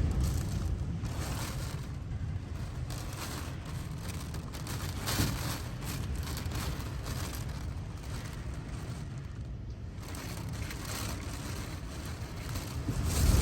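Typhoon wind gusting hard against the microphone, a constant low rumble with rain and short louder gusts coming and going.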